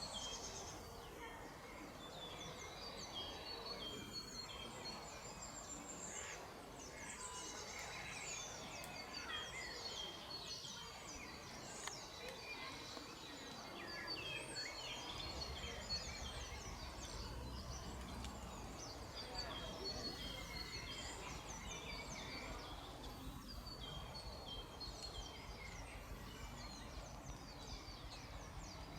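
Several small birds singing and calling at once, a dense chorus of rapid high chirps and trills. A low rumble comes in about halfway.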